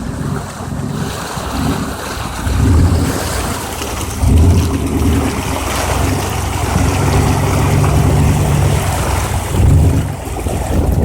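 A vehicle engine pulling through water, its low hum swelling in several surges, over the steady rush of water splashing around the vehicle and wind buffeting an outside-mounted camera microphone.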